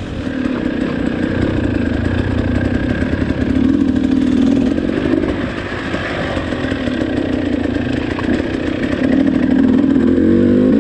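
KTM 300 two-stroke dirt bike engine running under riding load, its revs wavering up and down with the throttle. The engine eases off about six seconds in and climbs again near the end.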